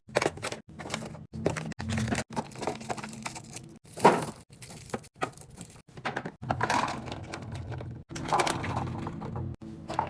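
Food containers and packaging being handled in a fridge clean-out: a quick run of knocks, clacks and crackles, the loudest about four seconds in, chopped by abrupt edits, with a low steady hum under parts of it.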